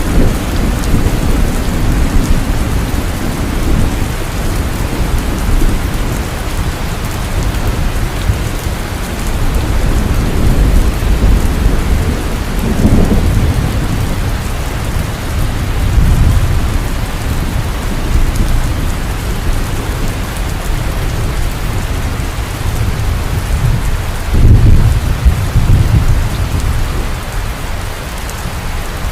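Heavy rain pouring steadily, with thunder rumbling low underneath in several rolling swells, the loudest a little after the middle and again near the end.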